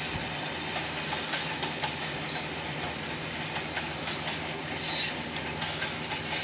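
Freight cars, largely grain hoppers, rolling past with a steady rumble and light clicking of wheels over rail joints. A brief high hiss or squeal comes about five seconds in.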